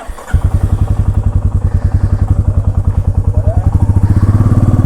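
Royal Enfield Meteor 350's single-cylinder engine starting about a third of a second in, then running with an even thumping beat that grows a little louder and quicker near the end as the bike pulls away.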